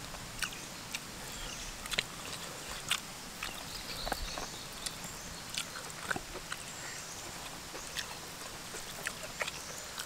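Mouth sounds of people eating rice and chicken by hand: chewing and lip smacking, heard as scattered short wet smacks and clicks over a faint steady hiss.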